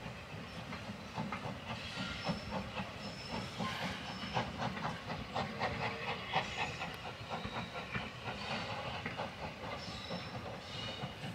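Steam-hauled Pullman dining train rolling away through a station, its coach wheels clicking and clanking rapidly over the rail joints and pointwork, over a steady hiss of steam.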